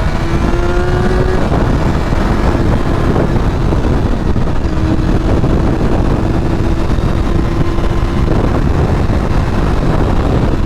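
Honda CBR sport bike's engine running while riding at speed, under heavy wind rush on the microphone; the engine note climbs in the first second or so, then holds steady.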